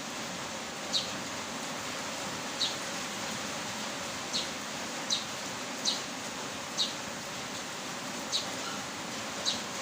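Heavy rain falling steadily. Over it come eight short, high chirps, each falling in pitch, spaced irregularly about a second apart.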